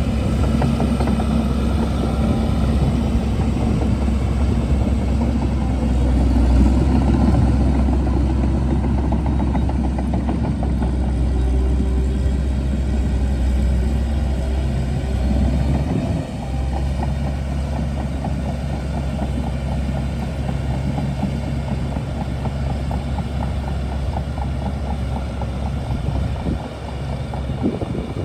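Shantui DH17C2 bulldozer's diesel engine running steadily under load, with a dense crackle over the engine sound. The engine sound dips briefly about halfway through and falls off near the end.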